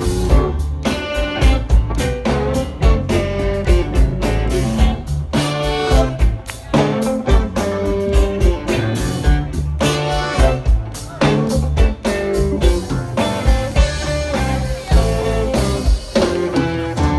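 Blues band playing an instrumental passage: guitar over bass and a steady drum beat.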